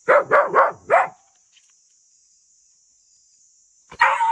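A dog barking four times in quick succession, then falling quiet. Near the end a long held call with a steady pitch begins.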